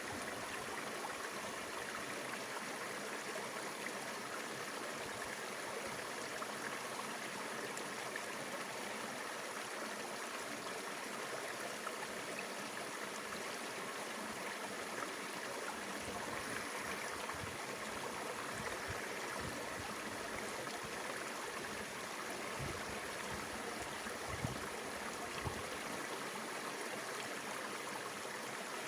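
Mountain river water flowing and rushing steadily over its bed. A few short, low thumps come near the end.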